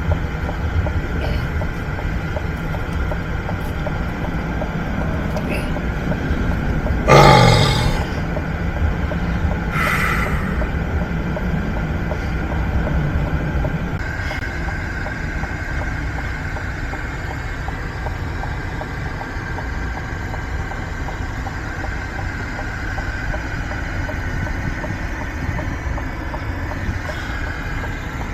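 Steady engine and road rumble of a truck being driven, with a brief louder noise about seven seconds in and a smaller one about ten seconds in.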